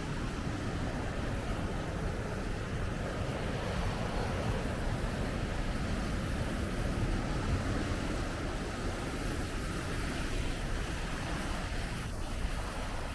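Big ocean waves breaking in a steady rush of surf, with wind on the microphone.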